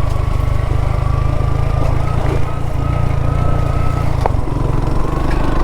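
Motorcycle engine pulling steadily under load up a steep hill climb, with a thin steady whine over it. A single sharp click about four seconds in.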